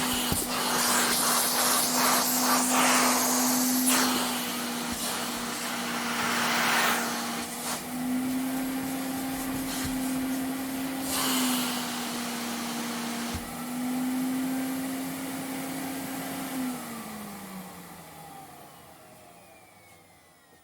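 Vacuum cleaner running with a steady motor hum and surges of rushing air noise. About three quarters of the way through it is switched off: the motor winds down in falling pitch and fades away.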